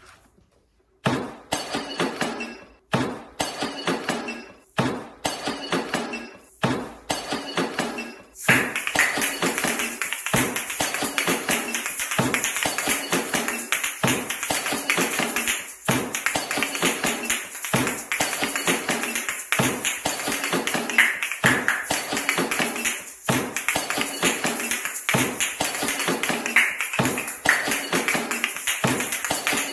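Asalato (kashaka), two shaker shells on a cord, played in rhythmic patterns with hard clicks as the shells strike each other and a rattle of the filling. It starts as short phrases separated by brief pauses, then from about eight seconds in runs as one continuous, fast clicking rhythm.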